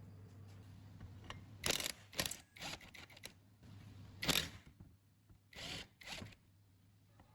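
A handful of short clicks and scrapes from handling tools and small engine parts, the loudest about two and four seconds in, over a steady low hum.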